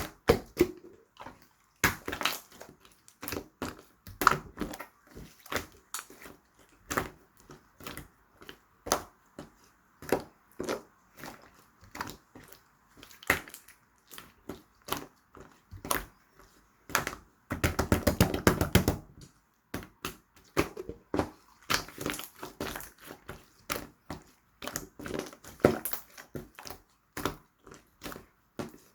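Slime being squeezed and poked by hand, giving irregular sharp clicks and pops, with a stretch of rapid dense crackling about eighteen seconds in.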